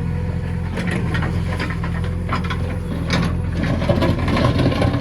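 JCB 3DX backhoe loader's diesel engine running steadily, with a string of irregular scraping and clattering knocks starting about a second in and growing heavier near the end.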